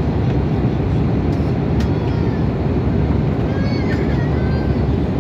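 Steady cabin noise inside an Airbus A320neo in flight: a low engine and airflow rumble. A high, wavering voice sounds briefly near the end.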